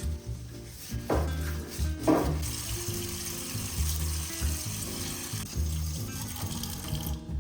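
A kitchen tap runs water into the sink from about two seconds in, cutting off near the end, after two short knocks. Background music with a steady beat plays throughout.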